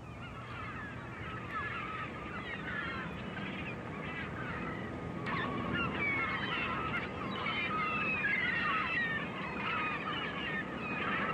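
A flock of birds calling: many short overlapping chirps and squawks that grow denser and louder over the few seconds, over a steady outdoor background hum.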